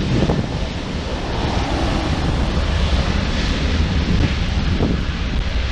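Steady jet airliner noise, a low rumbling roar, with wind on the microphone.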